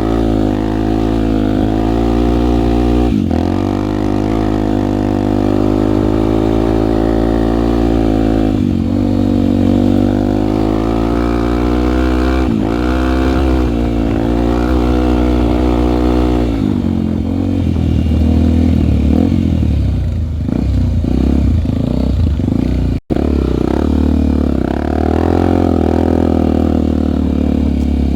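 Honda single-cylinder four-stroke trail bike engine being ridden. Its pitch climbs and drops back sharply three times in the first half, then runs rougher and uneven for several seconds before settling into a steady note.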